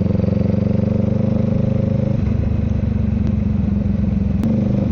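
Honda Rebel 500's parallel-twin engine running steadily while the motorcycle is ridden, its note shifting about two seconds in. A short click sounds near the end.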